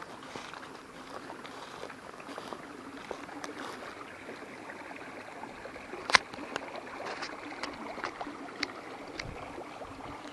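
Water running and trickling steadily, with scattered small clicks and one sharper click about six seconds in.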